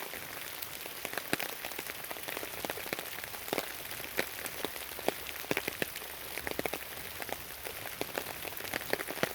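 Steady rain falling, with many irregular sharp ticks of large drops striking close by.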